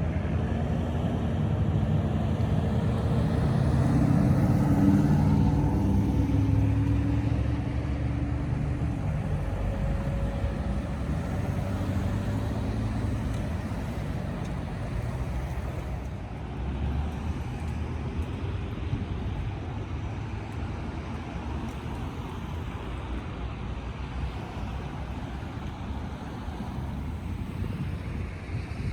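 Road traffic: a motor vehicle's engine rumbles, loudest in the first several seconds, then slowly fades to a steady low traffic noise.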